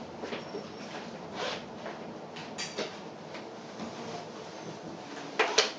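Regional train on the Bière–Apples–Morges line slowing into a station: a steady running rumble with scattered clicks and short squeals from wheels and brakes, and a loud short burst of noise near the end.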